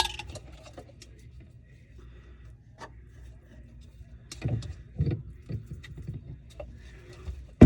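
Scattered clicks and knocks of tools and drain parts being handled during under-sink plumbing work, with a sharp click at the very start and a few duller knocks about halfway through, over a low steady hum.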